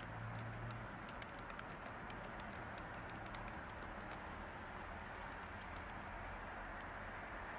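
Light, irregular typing on a computer keyboard, soft key clicks over a steady white-noise hiss.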